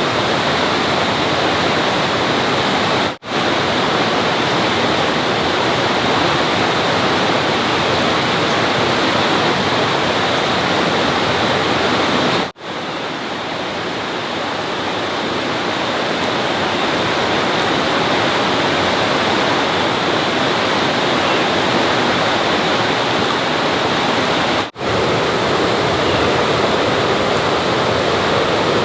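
Steady, loud rush of water. It cuts out for a moment three times.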